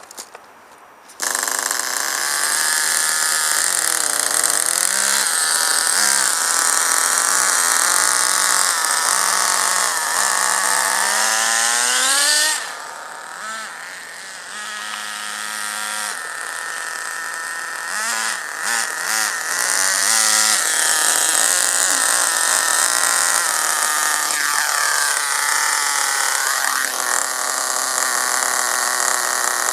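Vertex .18 nitro engine of a 1/10-scale RC buggy running, cutting in sharply about a second in and revved up and down in throttle blips, easing to a lower idle about halfway, then blipped again. Its high-speed needle has just been leaned out an eighth of a turn from a very rich setting.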